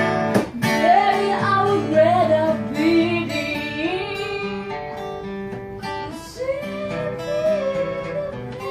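Acoustic guitar strummed in steady chords, with a voice singing a wavering melody over it.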